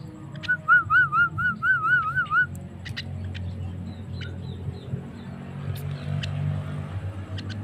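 Javan myna (jalak kebo) calling: a loud warbling whistled trill of about eight quick wavers lasting some two seconds, then scattered sharp clicks and short chirps.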